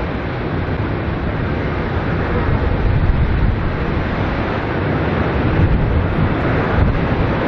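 Airbus A330 airliner's jet engines giving a steady rumble as it lands, with wind buffeting the microphone.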